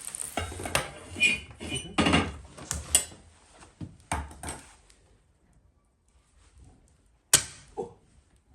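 Repair work in a room: a run of knocks and clatters as things are handled, then, after a short lull, one sharp knock about seven seconds in followed by a lighter one.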